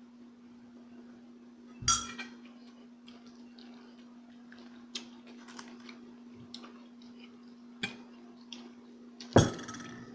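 Utensils clinking against a plate, with two louder ringing clinks about two seconds in and near the end and lighter clicks between, over a steady hum.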